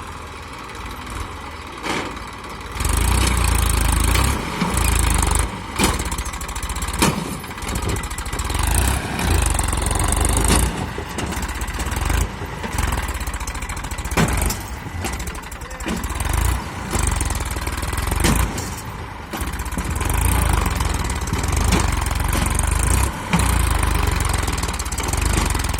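Massey Ferguson tractor's diesel engine running, its sound swelling and sagging, with short knocks and bumps throughout.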